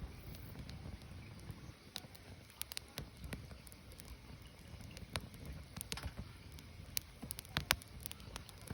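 Firewood burning: sharp, irregular crackles and pops over a low, steady rumble of the fire, with a cluster of louder pops near the end.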